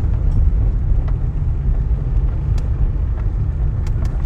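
Car driving along the road, heard from inside the cabin: a steady low rumble of engine and road noise, with a few light ticks.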